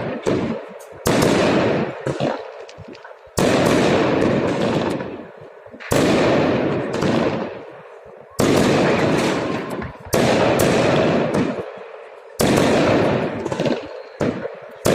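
Fireworks salute volleys: a loud bang about every two seconds, seven in all, each followed by a crackling rumble that dies away.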